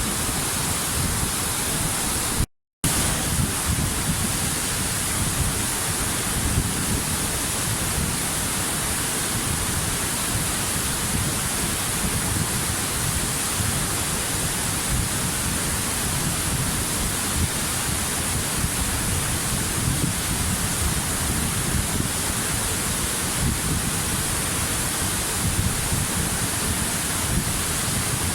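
Steady, even rush of a waterfall, dropping out to silence for a moment about two and a half seconds in.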